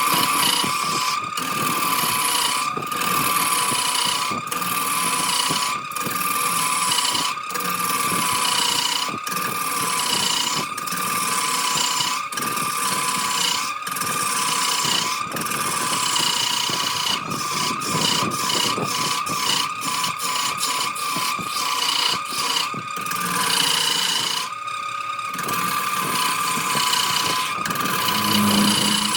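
Wood lathe running with a steady, slightly wavering whine while a turning tool cuts into the spinning jackfruit wood, giving a constant hiss of shaving, broken by brief regular dropouts.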